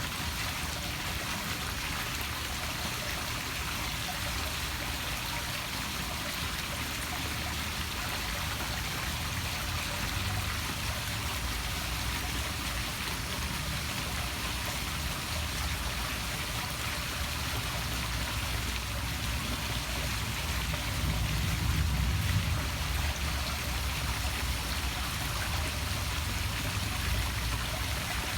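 Poolside waterfall splashing steadily into the pool, with a slightly louder surge about three quarters of the way through.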